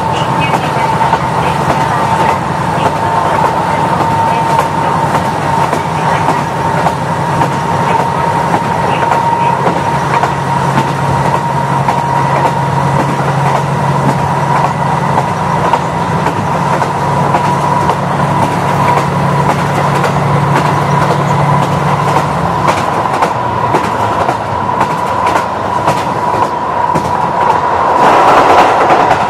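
KiHa 40 diesel railcar running along the line: steady diesel engine drone under the rhythmic clickety-clack of the wheels over rail joints, with a steady whine. The low engine drone drops away about three-quarters of the way through, and the running noise swells near the end.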